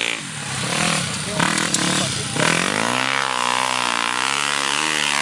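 Motocross motorcycle engine running, its pitch rising and falling with the throttle: choppy at first, then held in a steady up-and-down rev from about halfway through.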